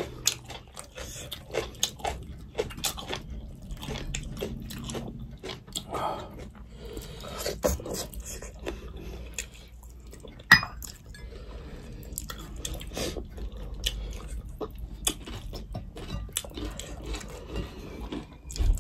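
Close-miked eating sounds: chewing and wet mouth clicks and smacks of two people eating rice and fish by hand. About ten and a half seconds in there is one sharp clink of a ceramic bowl or dish.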